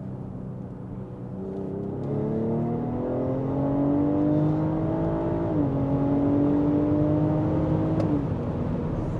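BMW X5 45e's B58 turbocharged straight-six accelerating under throttle, heard from inside the cabin through a valved catback exhaust with the particulate filter deleted and the valves open. The engine note climbs in pitch from about a second in and dips at an upshift around halfway. It climbs again and drops near the end.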